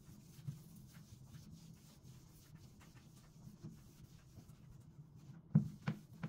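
Household items being handled: light rubbing and small clicks, then two louder knocks close together near the end, over a low steady hum.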